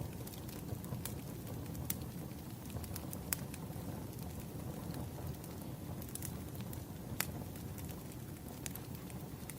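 Firewood burning: a steady low rumble of the fire with sharp crackles and pops at irregular intervals.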